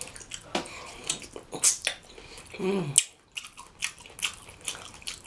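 Close-miked chewing and biting of greens dipped in cheese sauce: wet crackles and mouth clicks, with a brief falling "mm" hum about two and a half seconds in and a sharp smack just after it.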